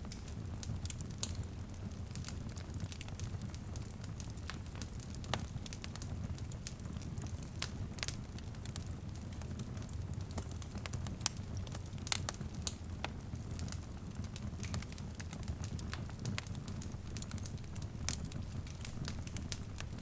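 Wood fire crackling in a fireplace: a steady low rumble of the flames with frequent irregular pops and snaps. A light drizzle on a window may lie faintly underneath.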